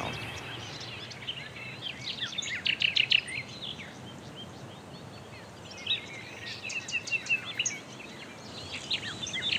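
Small birds chirping in quick runs of short, high notes, in two spells, the second starting about six seconds in, over a steady outdoor hiss.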